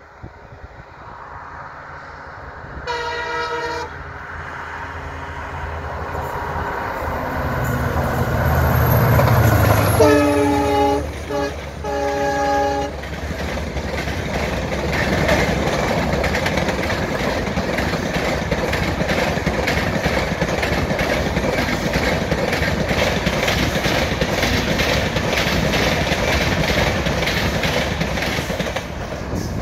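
Mysore–Ajmer Express passing at speed: the locomotive's horn sounds once about three seconds in, its low rumble swells as it comes close, and two more horn blasts come at around ten seconds. The coaches then roll by with a steady, rhythmic clickety-clack of wheels over the rail joints.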